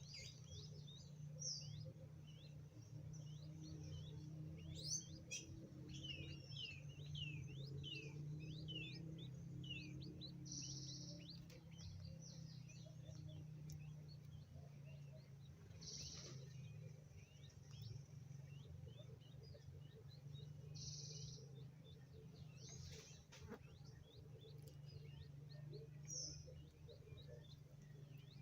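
Birds chirping faintly: a run of quick, falling chirps in the first ten seconds or so, then scattered short calls, over a steady low hum.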